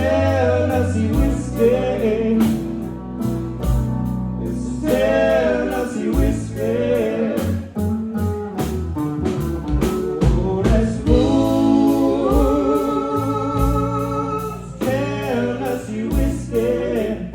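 Live band music: a singer over a bass line and a steady beat, holding one long note about two-thirds of the way through.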